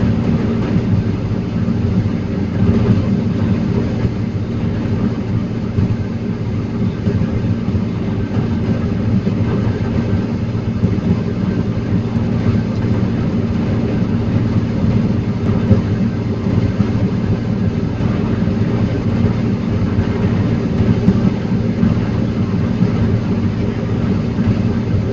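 A forestry machine's diesel engine running steadily at a constant speed, a low, even drone with no revving.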